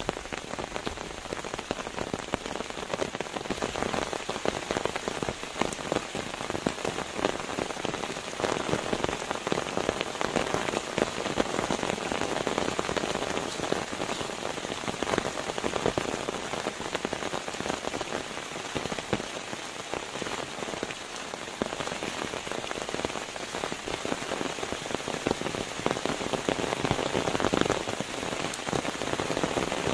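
Steady rain falling on a surface, a dense patter of drops that keeps up without a break.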